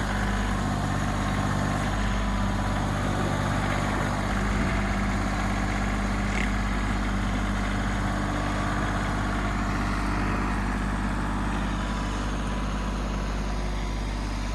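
An engine running steadily at idle, a constant low hum that doesn't change speed.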